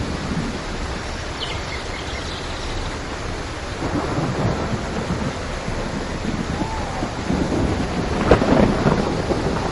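Steady rain with rumbling thunder that swells and fades, loudest in a sharper thunderclap about eight seconds in.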